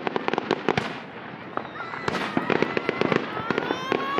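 Fireworks display: dense, rapid crackling and popping of exploding shells, several sharp pops a second. From about halfway in, high whistling tones sound over the crackle.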